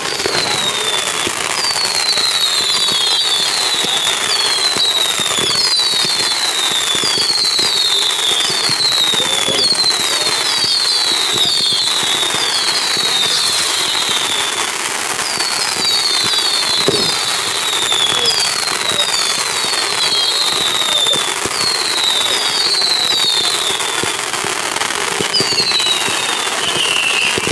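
Fireworks going off: a continuous run of short whistles, each falling in pitch, coming in quick clusters over steady crackling.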